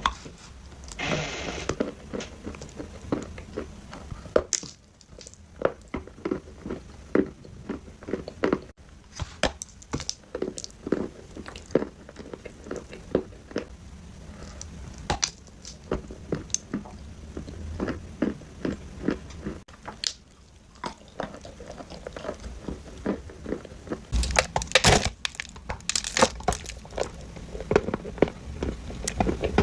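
Dry clay being bitten and chewed, crunching with many sharp crackles. A louder flurry of crunches comes near the end.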